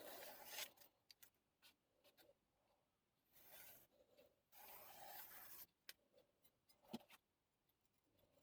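Faint, dry swishing strokes of a chef knife blade being drawn along, a few strokes each lasting up to about a second, with light ticks between them.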